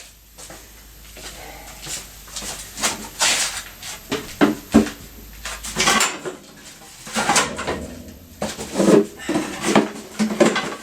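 Irregular clunks, clicks and clinks of metal parts and tools being handled during work on a motorcycle.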